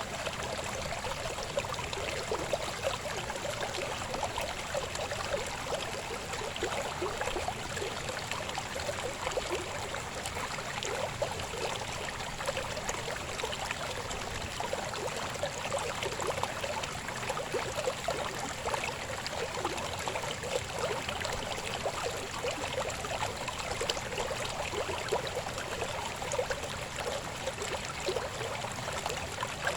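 River babbling: a steady rush of flowing water with many small gurgles and splashes.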